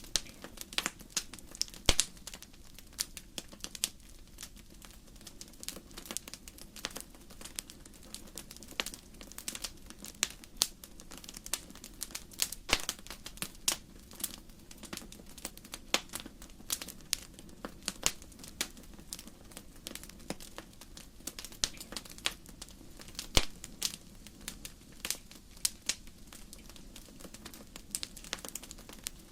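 Wood burning in a fireplace, crackling: irregular sharp pops and snaps, some louder than others, over a steady low background noise from the fire.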